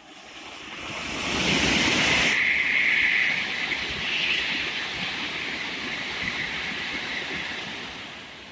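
Tokaido Shinkansen train passing through at high speed: a rushing roar that swells quickly, its hiss cutting off sharply after about two seconds, then stays loud for several seconds as the cars go by and fades near the end.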